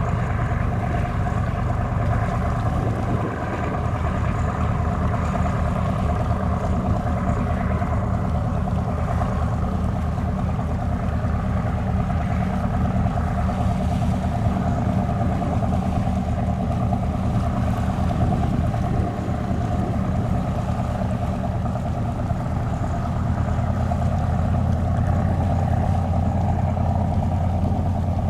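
A passenger boat's engines running steadily: a continuous low drone with a steady hum above it. The drone shifts slightly about three seconds in and again in the last few seconds.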